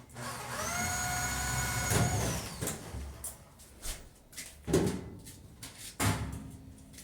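Power drill running for about two seconds, its whine rising as it spins up and then holding steady before it stops, likely while fitting the cart's lids. Clicks and knocks of handling follow, with two louder thumps near the end.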